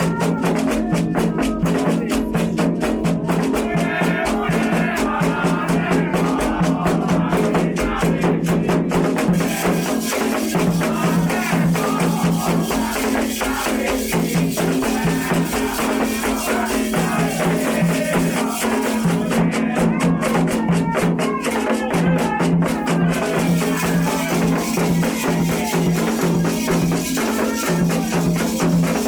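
Candomblé ceremonial music: shaken rattles and drums keep a steady, driving rhythm under singing voices.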